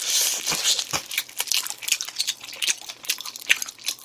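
Close-miked eating: biting into and chewing a piece of spicy chicken, a quick irregular run of wet crackles and crunches, densest in the first half second.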